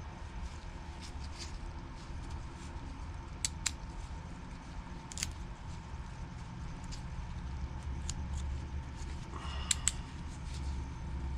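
Small sharp clicks and taps of a trimmer carburetor and its parts being handled, two close together about three and a half seconds in, one more a couple of seconds later and a louder pair near the end, over a steady low hum.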